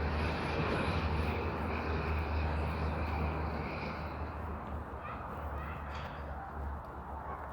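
Road traffic noise with a steady low rumble, a little louder in the first half and easing after about four seconds.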